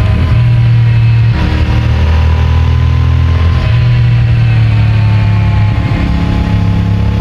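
CFMOTO 450MT's parallel-twin engine through its stock exhaust, running steadily under way. Its note breaks briefly a few times, about every two seconds.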